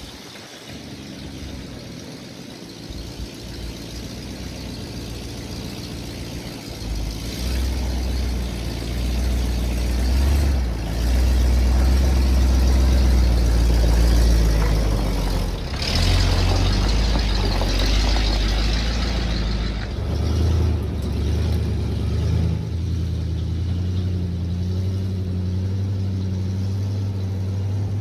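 1972 Chevrolet C50 dump truck's engine pulling a heavy stump load up a hill. Its note grows louder about seven seconds in and changes pitch several times as it works.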